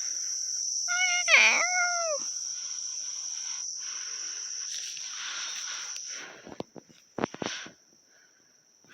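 Crickets chirring steadily at a high pitch. About a second in comes a single short, high call whose pitch dips and then rises again, and near the end a few sharp knocks.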